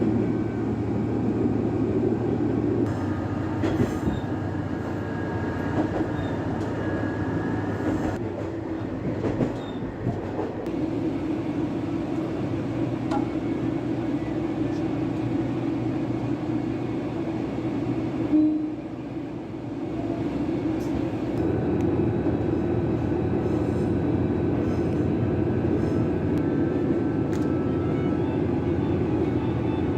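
Akechi Railway diesel railcar running along the line: a steady low drone of engine and wheels on rail, with occasional sharp clicks from the track and a single louder knock past the middle.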